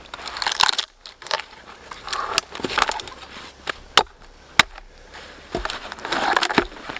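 Dry wood being handled and broken by hand, with crackling and crunching in spells and two sharp knocks about half a second apart near the middle.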